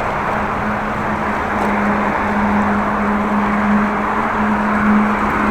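Steady wind and rolling noise while riding a bicycle, with a steady low hum that comes in at the start and holds throughout.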